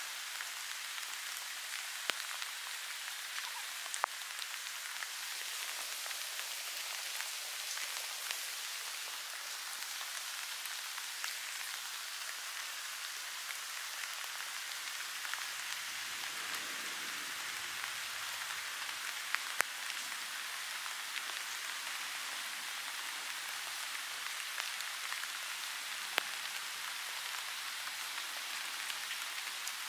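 Steady rain falling on grass, an even hiss with a few sharper raindrop ticks now and then.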